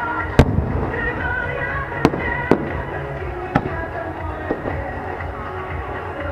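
Fireworks shells bursting in sharp bangs, about five spread through a few seconds, over the music that accompanies the show.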